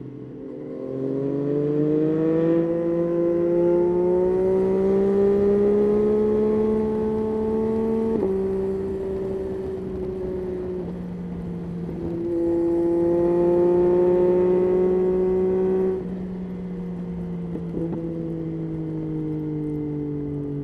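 Yamaha Tracer 9's three-cylinder engine pulling under throttle, its pitch climbing steadily for several seconds. It dips about eight seconds in, rises again, and goes quieter as the throttle eases around sixteen seconds in.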